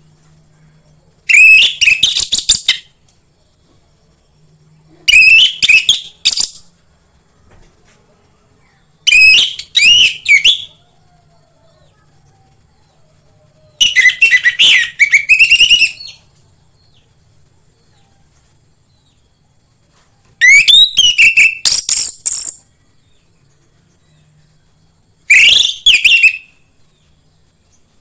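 Orange-headed thrush (anis merah) singing: six loud, varied whistled phrases of one to two seconds each, spaced a few seconds apart.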